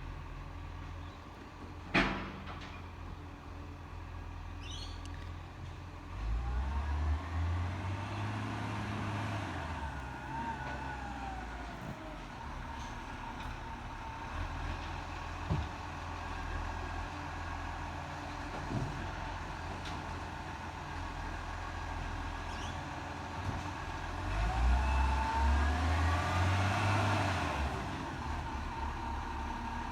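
Garbage truck engine idling, revving up twice for several seconds each time, with a whine that rises and falls during each rev, typical of the truck's hydraulics working; a sharp click about two seconds in.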